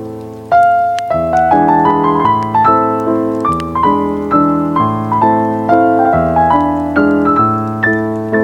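Solo piano music: a flowing run of soft, broken-chord notes over low bass notes that change every second or two.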